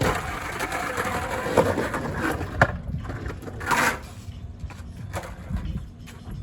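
Skateboard wheels rolling on wet pavement, then a sharp knock and a short scraping rush about a second later as the board takes a rail, likely a 50-50 grind.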